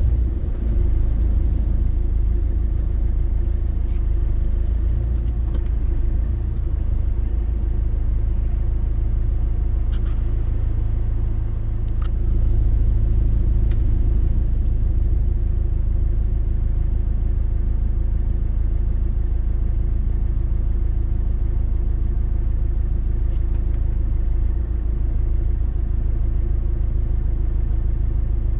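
Road noise inside a moving car on the highway: a steady low rumble of engine and tyres, with a few faint clicks at about 4, 10 and 12 seconds in.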